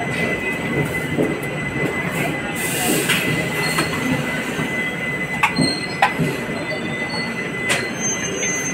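Passenger express train rolling slowly past a station platform, heard from an open coach doorway: steady running rumble with a thin, steady high-pitched wheel squeal and a few sharp clacks from the wheels and couplings.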